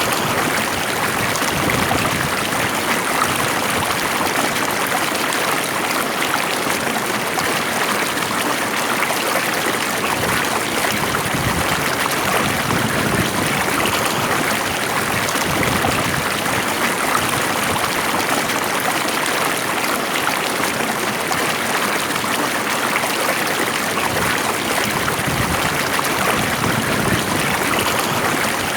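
Stream of water flowing calmly, a steady rushing and trickling with no breaks.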